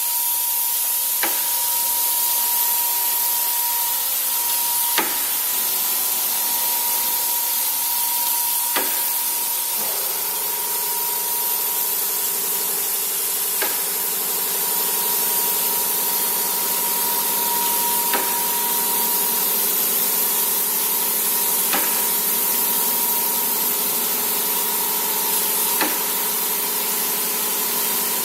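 Multicam Pro Series CNC router running: a steady hiss with a steady whine, joined about ten seconds in by a second, lower tone, and a short sharp tick roughly every four seconds.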